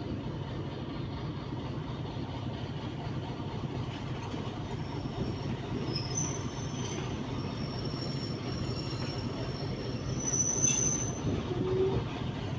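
Passenger train rolling steadily away after departure, with a constant rumble of wheels on track. Thin high wheel squeals come and go from about five seconds in, loudest near the eleventh second.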